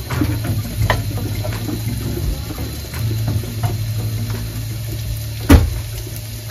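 Chopped onion, garlic, ginger and tomato sizzling in hot oil in a pan as they are stirred, with a few light scrapes and one sharp knock about five and a half seconds in.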